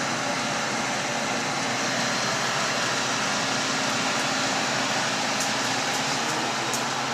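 Walk-in freezer refrigeration unit running steadily: a low hum with a few steady tones under an even rush of machine noise. Faint light ticks start about five seconds in.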